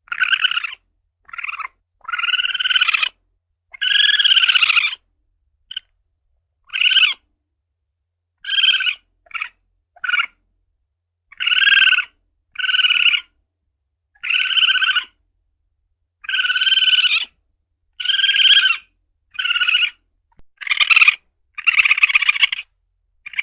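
Civet (luwak) calling: a string of short, high cries of varying length, about one a second, with dead silence between each cry.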